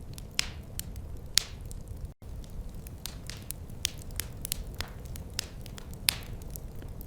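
Wood fire crackling in a fireplace: irregular sharp snaps and pops, several a second with a few louder ones, over a steady low rumble of the flames. The sound cuts out for an instant about two seconds in.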